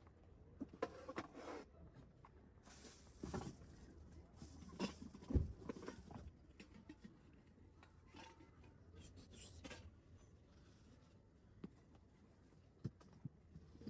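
Camping gear being handled: scattered rustling, light clicks and knocks, with one heavier low thump about five seconds in.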